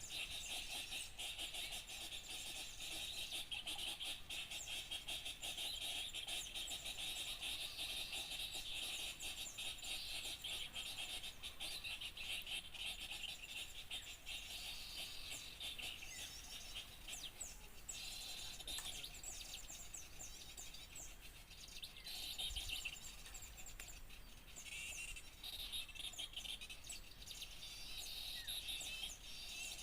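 Busy, overlapping chatter of many small songbirds, rapid chirps and short calls crowding over a steady high hiss: a bird-luring (pikat) recording meant to draw in small birds. The calling eases off somewhat midway and picks up again near the end.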